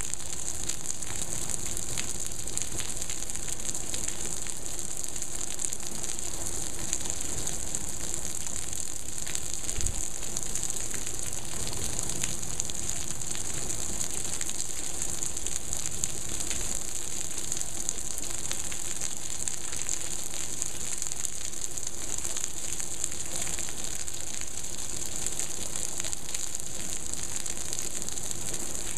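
Heavy monsoon rain falling steadily on a pool, patio and tile roofs: a continuous hiss of rain with scattered crackling drop taps, and one louder tap about ten seconds in.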